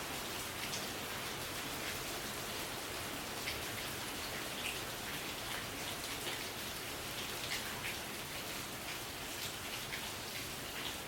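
Bioethanol fireplace flame burning with a steady soft hiss, with faint irregular ticks scattered through it.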